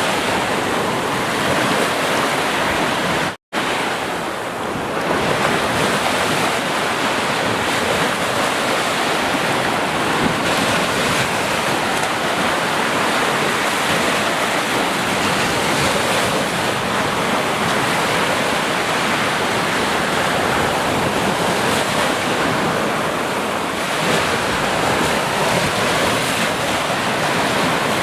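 Ocean waves washing onto the shore in a steady, continuous rush. About three and a half seconds in, the sound cuts out completely for a moment and then comes back.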